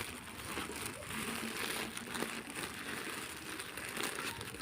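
Packaging rustling and crinkling as it is pulled open by hand, an irregular patter of small crackles.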